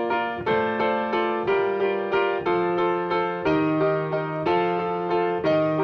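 Piano playing a piece in three-time at a brisk tempo, notes and chords struck evenly about twice a second.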